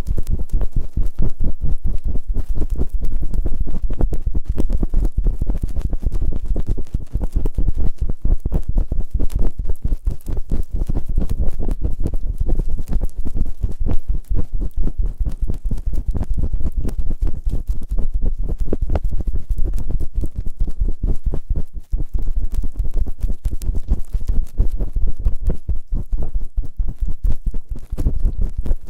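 Close-up ASMR ear-cleaning sounds on a microphone's ears, rubbed on both at once: fast, continuous scraping and rubbing strokes, heavy and rumbly in the low end.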